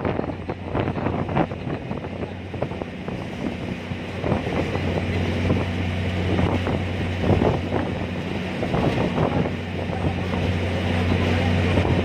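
Ferry's engine running with a steady low hum, which grows a little stronger about a third of the way in, under gusts of strong wind buffeting the microphone.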